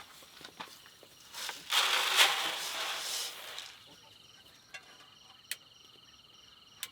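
A steady, pulsing insect trill, with a louder burst of rustling, hissing noise about one and a half seconds in that lasts some two seconds. A couple of sharp clicks come near the end.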